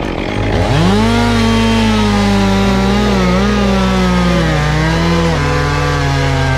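Chainsaw engine revving up to high speed about half a second in and running with a wavering pitch. A little after five seconds its pitch drops to a lower steady note. A steady low hum runs underneath.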